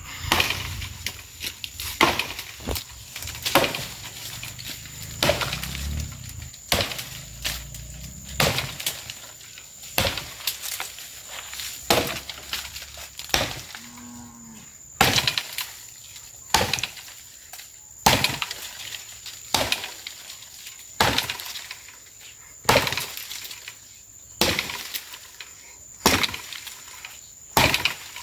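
Axe chopping into a tree trunk, one sharp stroke about every second and a half; the axe is dull. A short low moo from a cow about fourteen seconds in.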